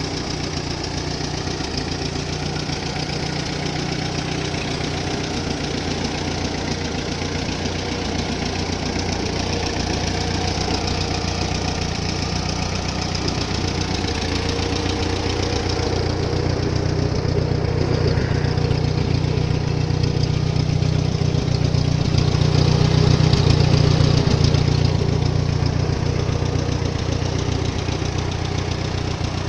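Ford 8N tractor's four-cylinder flathead engine running steadily while driving. It grows louder from about halfway through, then eases slightly near the end.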